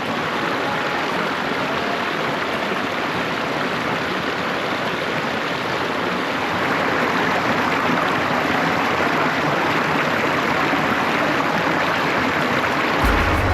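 Steady rushing water, an even hiss without any tone. A low rumble comes in near the end.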